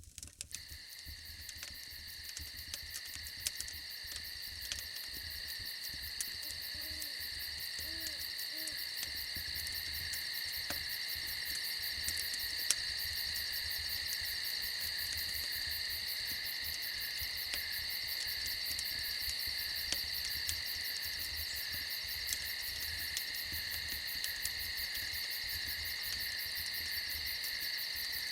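Steady shrill chorus of crickets that fades in over the first few seconds, with a few soft, low owl hoots about seven to nine seconds in.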